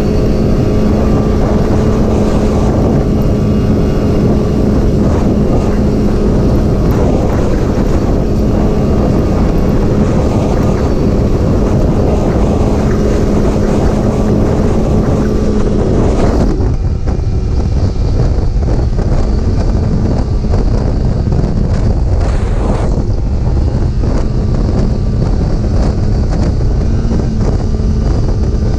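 Snowmobile engine running steadily at speed, with wind buffeting the microphone. About sixteen seconds in, the steady engine note fades and mostly wind rush is left.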